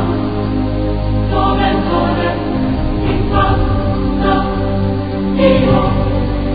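Background music: a choir singing with held low notes beneath.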